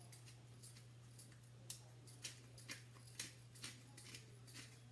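Salt and pepper being shaken over pieces of raw pork: faint, short, dry rattles, about two a second at uneven spacing, over a steady low hum.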